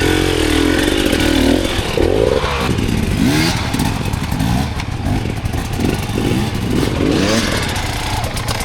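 Dirt bike engine revving up and down repeatedly, its pitch rising and falling with short bursts of throttle.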